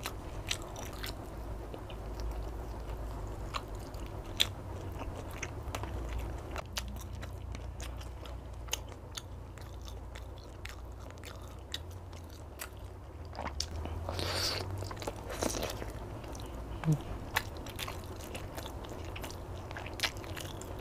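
Close-miked eating sounds: a person chewing and biting chicken satay and other food, with scattered sharp clicks over a steady low hum. A louder, breathy noise lasts about a second and a half, a little past two-thirds of the way through.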